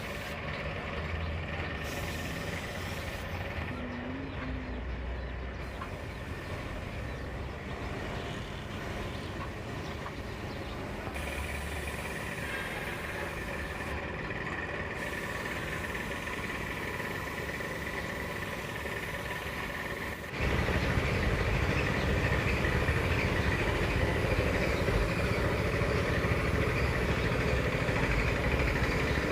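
An engine running steadily. The sound jumps clearly louder about two-thirds of the way through and stays at that level.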